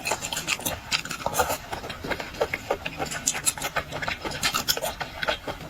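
Close-miked eating sounds: a dense, irregular crackle of boiled seafood shells being cracked and peeled, with chewing.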